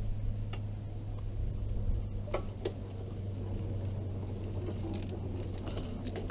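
Wheelchair rolling onto a path: a steady low hum with scattered light clicks and ticks from the wheels and chair.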